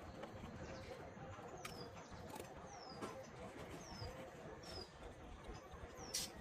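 A bird gives short, high chirps that fall in pitch, about once a second, over a steady background hiss. A few sharp clicks sound, the loudest just before the end.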